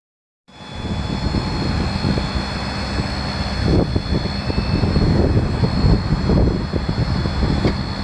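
Ford 6.7L turbo diesel V8 of the F550 truck running steadily, with a constant high whine over an uneven low rumble. It starts about half a second in.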